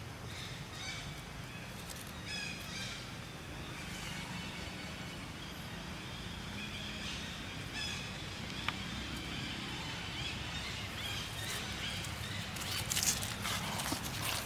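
Short animal calls over a steady low hum, with a burst of scratchy rustling near the end.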